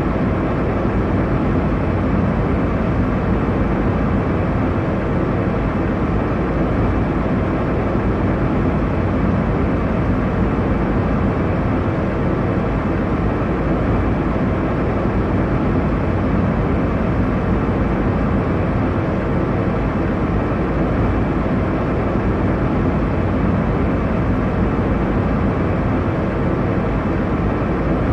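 Steady airliner cabin noise: the low, even rush of engines and airflow heard from inside the cabin in cruise, unchanging throughout.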